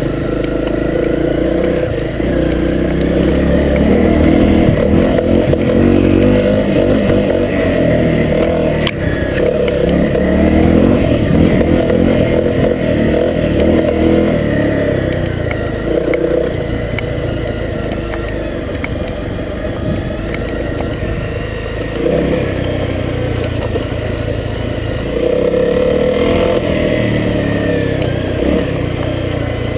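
Honda CRF250L dirt bike's single-cylinder four-stroke engine running as it is ridden on a trail, the revs rising and falling with the throttle.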